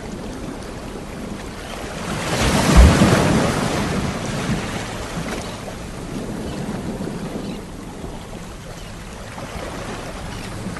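Ocean waves on a shore: one wave breaks loudly about two and a half seconds in, then washes out slowly over a steady hiss of surf.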